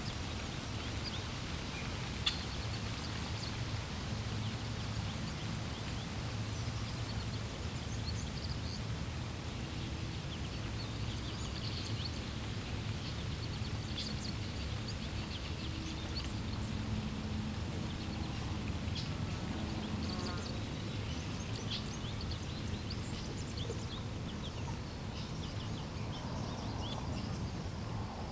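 Birds chirping in short, scattered calls over a steady low rumble of flowing water.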